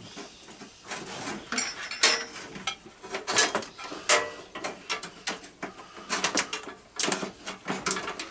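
Irregular clicking, clanking and rattling of tools and parts being handled while working on a garden tractor, with a few louder clatters scattered through.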